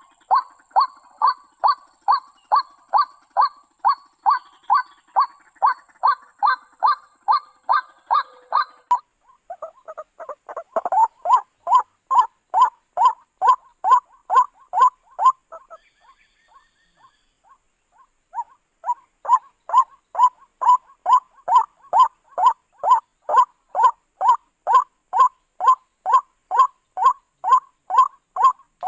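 White-breasted waterhen calling: a long run of harsh 'kruak' notes, about three a second, that stops for a moment about nine seconds in, fades out briefly a little past the middle, then starts again.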